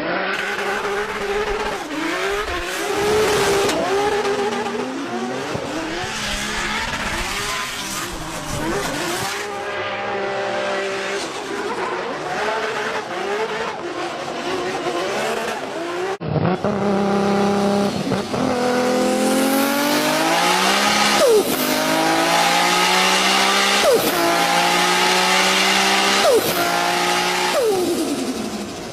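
Race car engine revving and accelerating hard, with tyre squeal. About halfway through the sound changes suddenly. After that the pitch climbs repeatedly and drops sharply each time, like gear changes under full throttle.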